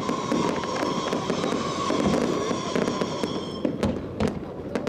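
Fireworks display: dense crackling and popping of bursting shells, under a steady ringing tone that cuts off about three and a half seconds in, after which separate sharp cracks stand out.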